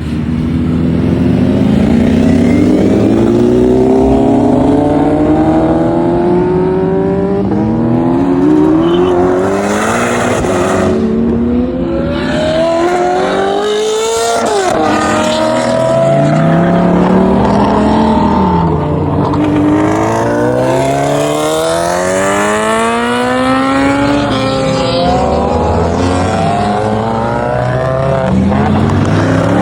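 Car engines accelerating hard one after another. The pitch climbs repeatedly, with brief drops between the climbs, as they pull through the gears.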